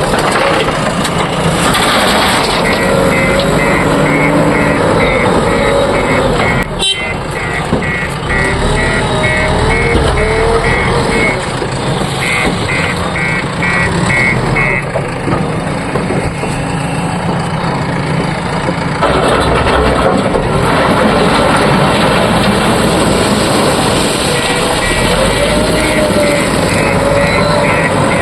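Heavy diesel machinery running steadily: a JCB 3DX backhoe loader working beside a Tata dump truck. Over it, a short high electronic beep repeats about twice a second in several stretches, and a single sharp click sounds about seven seconds in.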